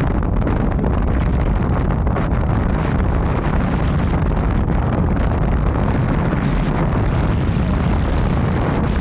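Steady wind buffeting the microphone of a moving bike, a heavy low rumble with riding noise underneath that keeps on without a break.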